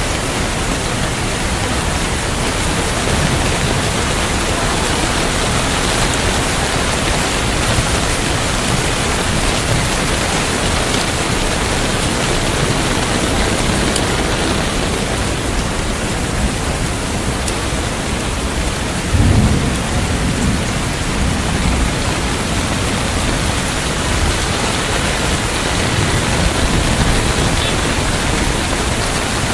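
Steady, heavy rain, with a low rumble of thunder about two-thirds of the way in.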